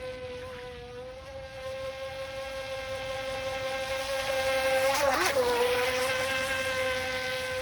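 Electric motor of an RC speedboat (Haiboxing HBX X03) whining steadily at high speed, growing louder as the boat comes closer. About five seconds in it passes close by with a burst of water noise and the pitch drops, then the whine carries on.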